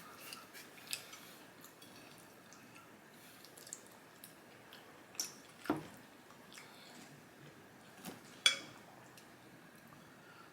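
Quiet eating sounds: wet mouth clicks and chewing, with a few sharper clicks scattered through, the loudest about eight and a half seconds in.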